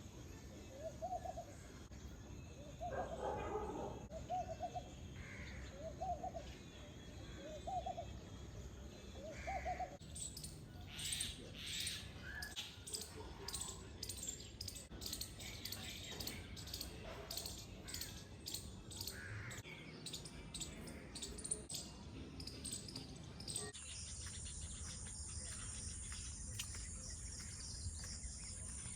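Outdoor birdsong. For the first ten seconds one bird repeats a short low call about every second and a half, with one harsher call among them. Then several birds chirp and twitter busily. After a sudden change about 24 seconds in, insects (crickets) keep up a steady high shrill drone.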